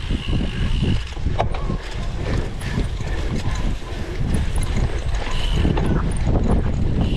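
Cyclocross bike rattling and knocking over a bumpy course, with a constant low rumble of wind on the microphone.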